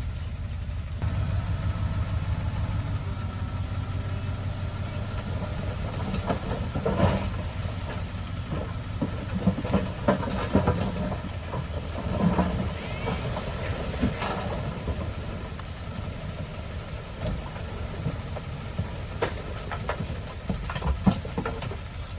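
Heavy diesel earthmoving machinery running steadily, with scattered metallic clanks and knocks from about six seconds in.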